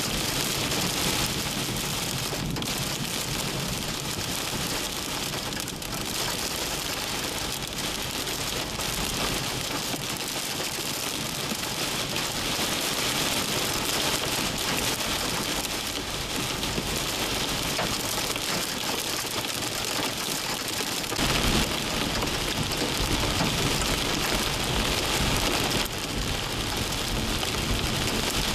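Heavy wind-driven rain from a severe thunderstorm pounding steadily on a moving vehicle, heard from inside the cab. A deeper rumble joins about two-thirds of the way through.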